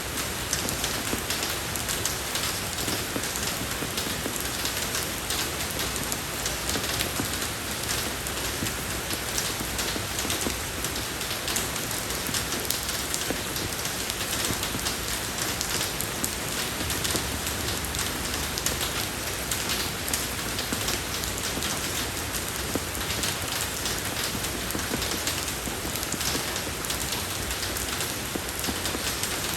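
Steady rain falling on a road surface: a dense, even patter of drops with no let-up.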